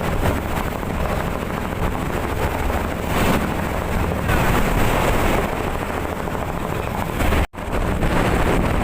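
Wind buffeting the microphone over the steady rush of a boat running through rough sea. The sound cuts out abruptly for a split second near the end.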